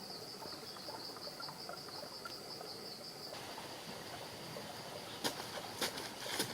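Insects, crickets or similar, chirring steadily at a high pitch. Near the end, a few sharp clicks or knocks cut in.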